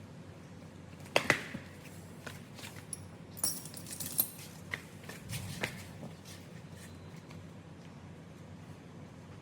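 Metal tools and parts clinking and tapping as they are handled, a few sharp clinks in the first six seconds, then only a low steady hum.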